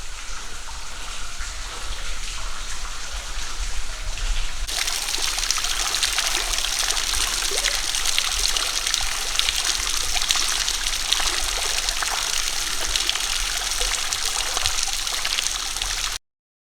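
Steady rush of running water from a creek or falls running high after wet weather; it gets louder about five seconds in and cuts off suddenly near the end.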